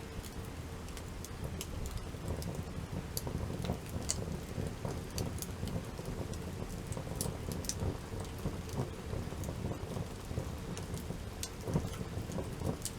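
Wood campfire burning, with a steady low rush and frequent sharp crackles and pops at irregular moments.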